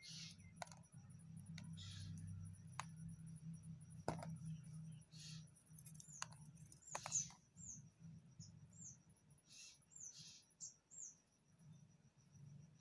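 A blade cutting and scraping a bar of Medimix soap: short, faint scrapes and small sharp clicks at uneven intervals. A few short high chirps, like a small bird, come in the middle.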